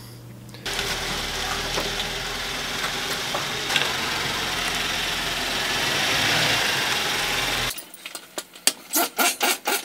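A car engine idling steadily, with a broad hiss over a low hum, starting and stopping abruptly. It lasts about seven seconds, and a few sharp knocks follow near the end.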